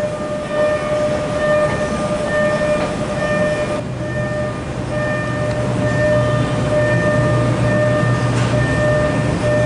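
Train noise: a low steady hum that grows a little stronger about halfway through, under a steady high-pitched tone that breaks off and resumes several times.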